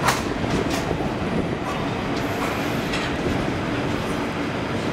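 Moving passenger train coach, heard from its open doorway: a steady running rumble of wheels on the track, with a few sharp clacks about the first second and again about three seconds in.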